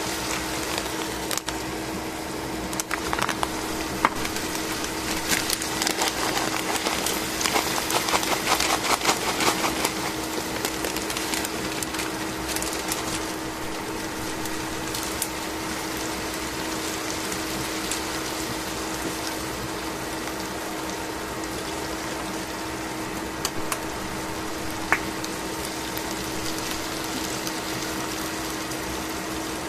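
Chicken pieces frying in oil in a stainless steel pan: a steady sizzling hiss over a steady low hum. Roughly five to ten seconds in comes a patch of crackling and clicks as crispy fried onion is tipped onto the meat.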